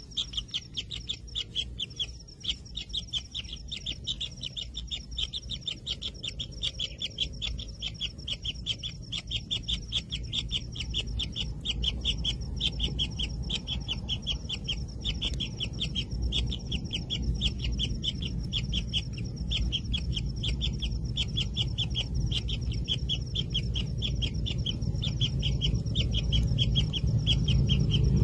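Kingfisher nestlings in the nest burrow giving a continuous chorus of rapid, high-pitched begging calls. A low rumble under them grows louder toward the end.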